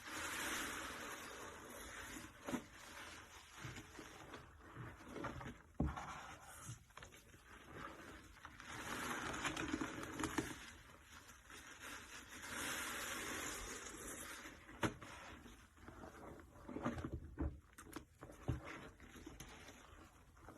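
Wet sponge soaked in cleaning powder and detergents squeezed, giving long foamy, crackly squelches three times, with drips and small wet clicks in between.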